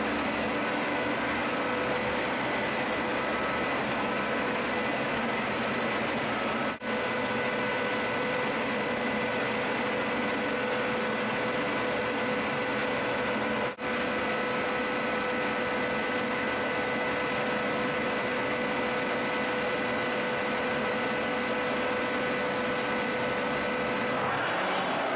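C.R. Onsrud CNC router's 16 HP spindle running steadily: a constant whine over a rush of machine noise. The sound drops out very briefly twice.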